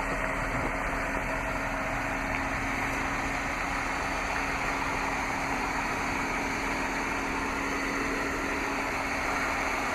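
A vehicle engine idling steadily, with a constant low hum and no changes in pitch.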